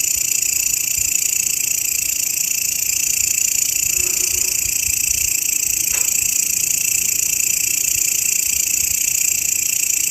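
Grasshopper stridulating: a steady, dense, high-pitched buzz that does not let up, with one short click about six seconds in.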